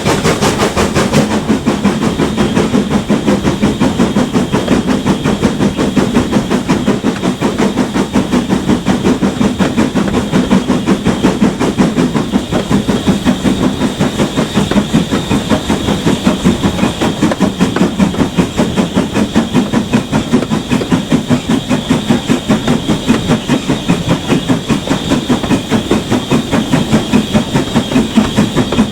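GWR Manor class 4-6-0 steam locomotive working hard, with a rapid, even chuffing of exhaust beats.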